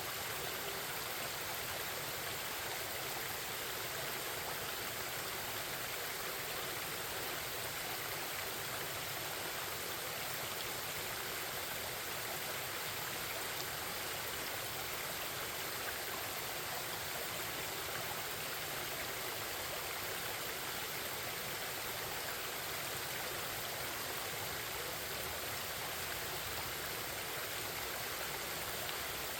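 Forest stream babbling and rushing steadily, an even hiss of flowing water with no change in level.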